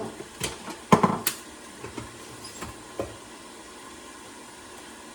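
Kitchen cookware clattering: a few sharp knocks of a utensil or pot in the first second or so and one more about three seconds in, over a faint steady hiss.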